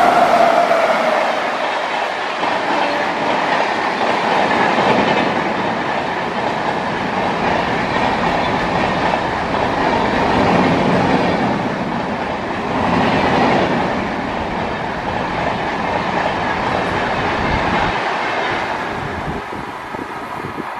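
Express train of LHB coaches hauled by a WAP-7 electric locomotive passing close at speed. A whine from the locomotive drops in pitch and fades in the first second, then the coach wheels rumble and clatter steadily over the rails. The sound eases near the end as the last coach goes by.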